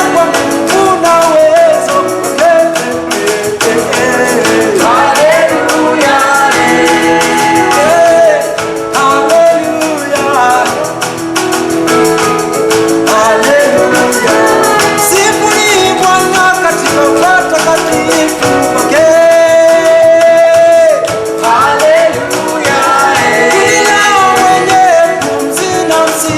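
Live worship song: singing voices over instrumental band accompaniment, with one long held note about two-thirds of the way through.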